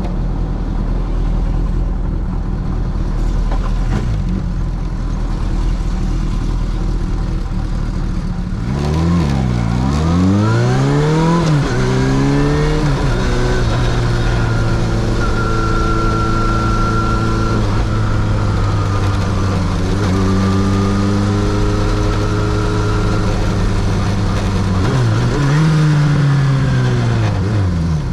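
Kawasaki Zephyr 750's air-cooled inline-four engine ticking over steadily, then about nine seconds in pulling away, its pitch climbing and dropping back with two quick upshifts before settling into a steady cruise. Near the end the revs rise and fall again.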